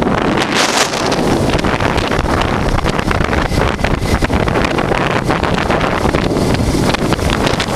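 Heavy wind buffeting the microphone of a moving motorcycle, with the 1988 Honda Transalp's V-twin engine running underneath at road speed.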